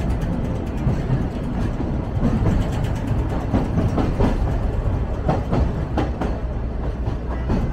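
Sagano Romantic Train's trolley cars running along the track: a steady low rumble with a scatter of sharp wheel clacks through the middle.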